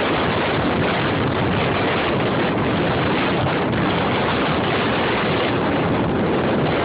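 Strong storm wind buffeting the microphone: a loud, steady rushing noise that does not let up.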